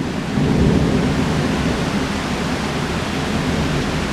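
Heavy tropical rain falling steadily, with a low rumble of thunder swelling about half a second in.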